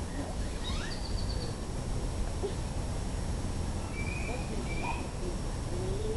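Outdoor ambience: a steady low rumble with a few short bird chirps, a quick high trill about a second in and two chirps around four seconds in, and faint distant voices.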